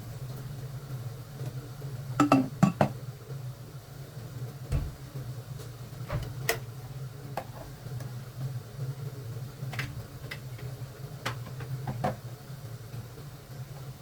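Kitchen clatter: scattered clinks and knocks of dishes and utensils being handled, a quick cluster of them about two seconds in and single ones after, over a steady low hum.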